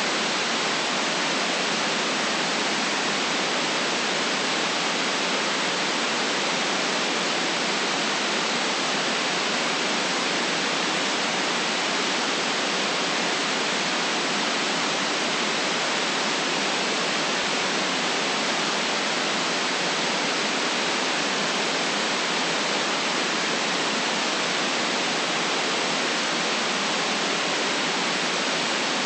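Steady, unchanging white noise: an even hiss with no deep rumble and the highest treble cut off, holding the same level throughout.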